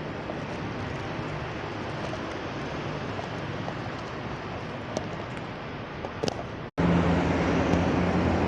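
Steady road and traffic noise. About two-thirds of the way through it cuts out for an instant and comes back louder, with a steady low hum.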